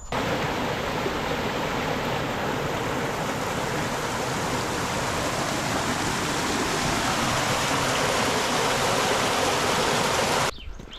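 Running water of a stream rushing steadily, cutting off suddenly near the end.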